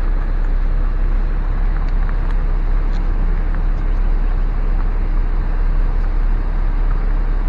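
Steady low rumble of a car driving slowly: road and wind noise, heaviest at the low end.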